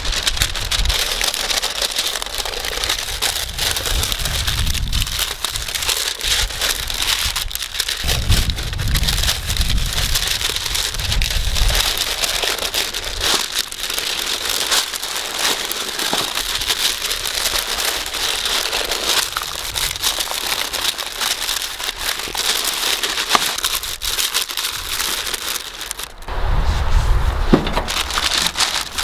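Open wood fire crackling: a dense, continuous run of small pops and hiss, with a few low rumbles now and then.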